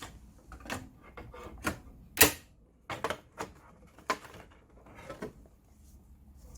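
Irregular sharp plastic clicks and knocks from an HP 8100 inkjet printer's parts being handled and fitted back together, with one louder knock about two seconds in.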